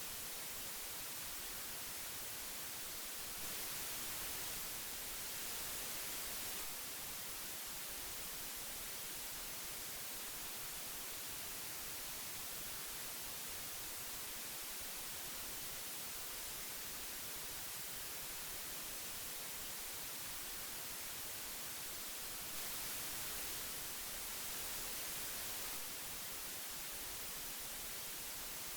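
Old magnetic tape hiss: a steady, even hiss weighted toward the high end. Twice it grows slightly louder and brighter for about three seconds.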